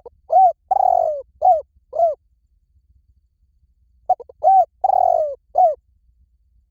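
Spotted dove cooing: two phrases of several short arched coos, each phrase with one longer drawn-out coo in its middle. The second phrase starts about four seconds in.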